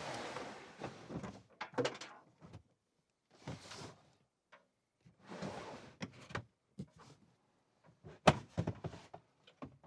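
Handling noises: several scraping or sliding sweeps about a second long, mixed with sharp knocks and clatter, the loudest knock a little after eight seconds in.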